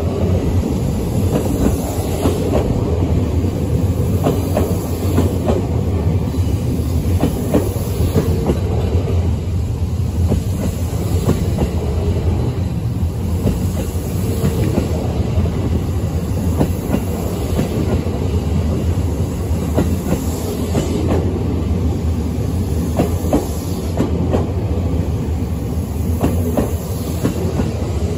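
E217-series electric multiple unit rolling slowly past at close range as it comes in to the platform. It makes a steady low rumble, and its wheels click irregularly over rail joints.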